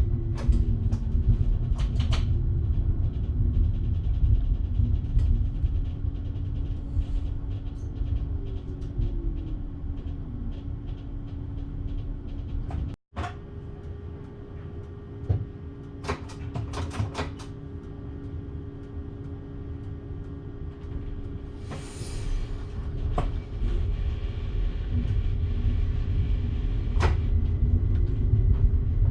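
Electric train running on the rails, heard from the driver's cab: a steady low rumble with a motor hum whose pitch glides in places, and scattered clicks and knocks. It goes quieter after a brief dropout about a third of the way in, then builds again near the end.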